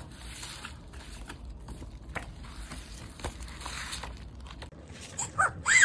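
Packaging being handled: crinkling and rustling with scattered small clicks. Near the end come two short rising squeaks, the loudest sounds here.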